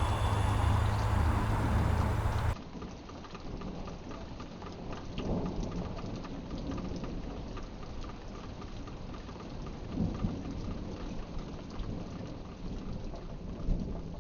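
A loud low rumble cuts off abruptly about two and a half seconds in, giving way to steady rain-like pattering with a few louder thumps.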